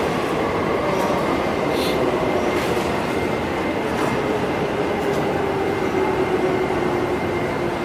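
Yamanote Line commuter train at the platform: a steady hum and rumble with a faint low tone, broken by several short, sharp clicks in the first five seconds.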